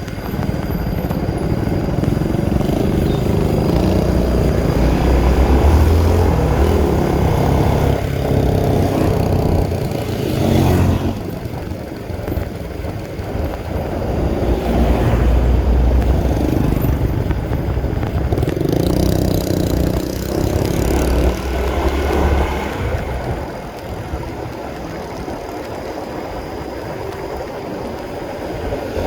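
Honda CB150R motorcycle's single-cylinder engine running on the move, its note rising and falling with the throttle, and quieter for the last few seconds.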